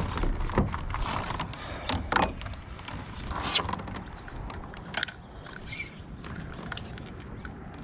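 Scattered clicks, knocks and mechanical creaking of gear being handled on a fishing kayak, loudest in the first five seconds.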